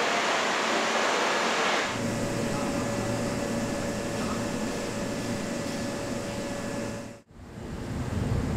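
Kintetsu limited express train standing at the platform: a loud hiss of air for about the first two seconds as it comes to rest. Then a steady hum of the stopped train's onboard equipment, with a faint held tone. The sound cuts out abruptly for a moment about a second before the end.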